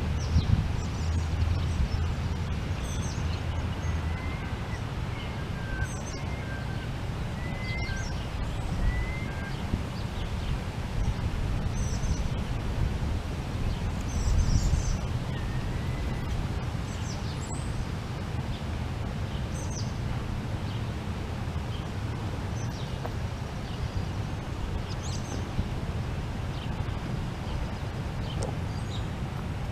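Birds chirping with short, high calls scattered throughout and a few brief whistled notes, over a steady low wind rumble on the microphone.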